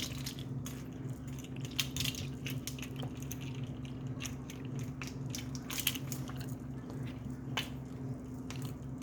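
Parrot chewing with its beak: scattered small clicks and crunches, a few sharper ones, over a steady low hum.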